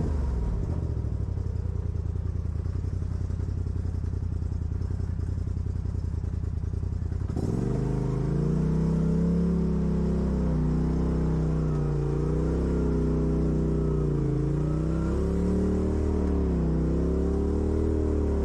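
Off-road vehicle engine running at low revs, then about seven seconds in it revs up and keeps running under varying throttle, the pitch rising and falling again and again.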